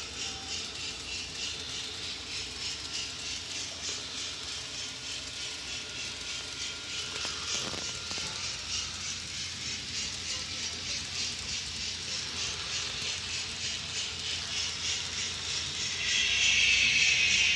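Model locomotive's DCC sound decoder playing running sounds through its small speaker: a steady rhythmic hissing beat, about two to three a second, slowly growing louder, with a louder hiss coming in near the end.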